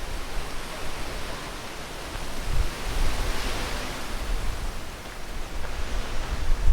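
Strong wind rushing through trees and brush, a gust swelling about halfway through, with low rumbling thumps of wind hitting the microphone.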